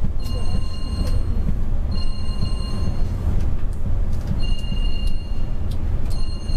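An electronic warning beep sounds four times, each about a second long and about two seconds apart, over the low, steady rumble of a Mercedes-Benz Travego coach's engine and road noise.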